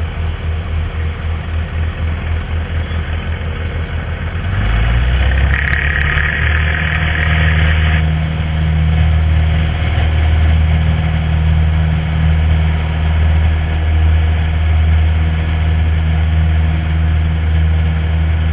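Cessna Skyhawk's four-cylinder piston engine and propeller running at low power with a pulsing beat, then brought up to full power about four and a half seconds in for the takeoff roll, after which it runs loud and steady. A steady high tone sounds for about two seconds just after the power comes up.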